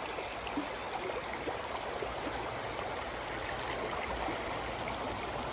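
Stream water bubbling and tumbling over rocks and fallen logs, a steady even rush.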